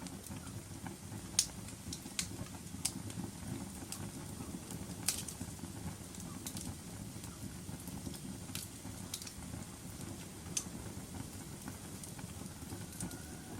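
Wood fire burning in a fireplace: a steady low rumble of flames with sharp crackles and pops every second or two, the loudest pop about a second and a half in.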